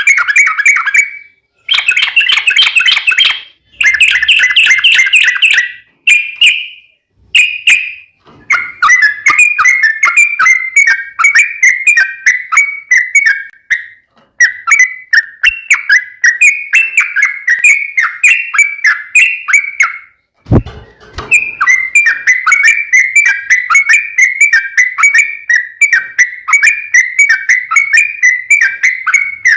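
Yellow-vented bulbul (trucukan) singing loudly in long runs of rapid, chattering whistled notes, each run lasting several seconds with short breaks between; this is the long rolling 'ropel panjang' song. A single short knock sounds about twenty seconds in.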